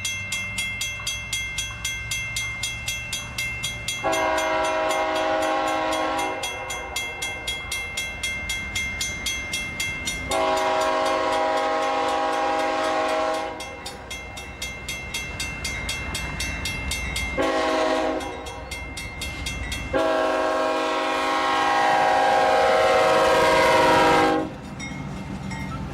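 Locomotive air horn sounding the grade-crossing signal: two long blasts, a short one, and a final long blast. A train's wheels clatter rhythmically on the rails underneath.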